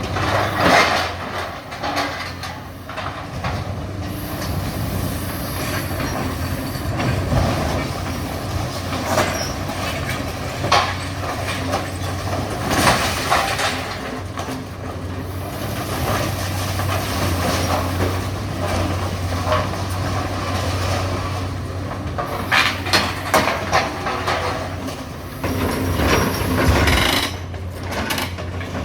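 Heavy hydraulic excavator's diesel engine running steadily while demolishing a building, with clusters of crashes and scraping from breaking concrete, metal and falling debris about a second in, around the middle, and through the last few seconds.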